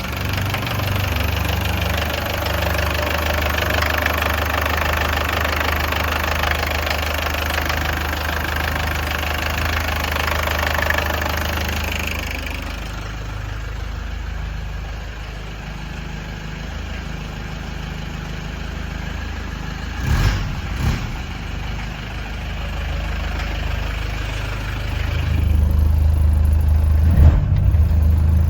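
Mercedes 200D four-cylinder diesel engine idling from cold with diesel knock. The clatter is loud for the first dozen seconds, then eases. Two short thumps come about 20 seconds in, and the engine grows louder with a deeper drone a few seconds before the end.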